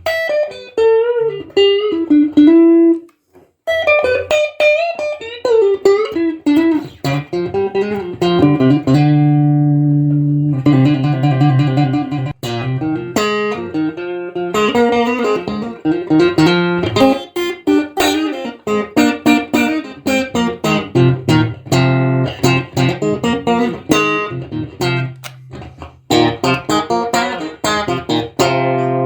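Stratocaster-style ash-body electric guitar from 1976 played clean: a melodic single-note line with bends and slides, a short break about three seconds in, a held low chord around nine seconds, then quick picked notes.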